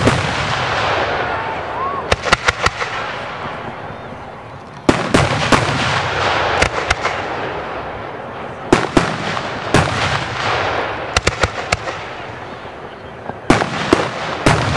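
Professional 1.3G display fireworks going off: loud sharp shell bursts, some single and some in quick clusters of three or four, every second or two, with a hissing, crackling wash that fades away between the bursts.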